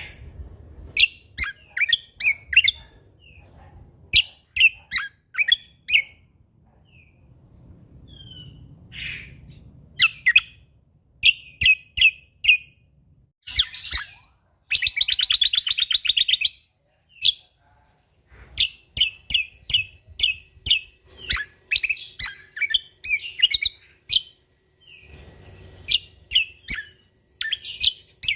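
Cucak kombo (kecial kombok) singing a loud, varied song of short, sharp, high chirps in quick phrases, with a rapid buzzy trill about halfway through.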